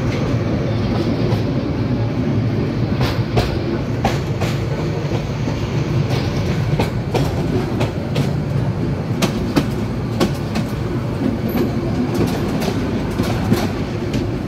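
Passenger train running, heard from on board: a steady low rumble with sharp clicks of the wheels over rail joints. The clicks are sparse at first and come more often after a few seconds as the train moves off.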